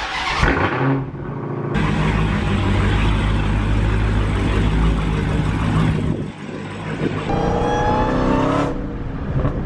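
Supercharged 6.2-litre Hemi V8 of a Dodge Challenger SRT Hellcat. It comes in loud about two seconds in and runs hard for several seconds, then accelerates with a rising supercharger whine that cuts off shortly before the end.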